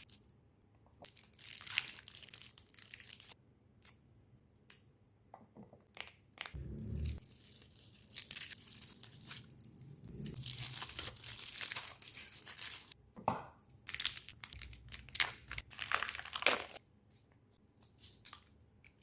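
Plastic snack and chocolate wrappers being torn open and crinkled in several separate bursts with short pauses between, and a low thump about seven seconds in.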